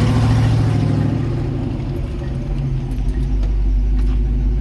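Vehicle engine running as the vehicle slows to a stop. The engine note eases down over the first couple of seconds, then settles into a steady idle with a heavy low rumble.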